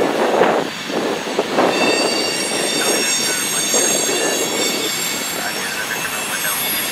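Freight train rolling past with its wheels squealing on the curves: thin, steady high-pitched tones set in about two seconds in over the rumble of the cars. Gusts of wind buffet the microphone.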